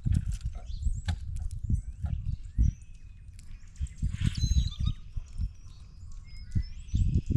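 Birds calling and chirping, with short whistles and squeaks that slide in pitch, mixed with clicks and repeated low bumps and knocks close to the microphone.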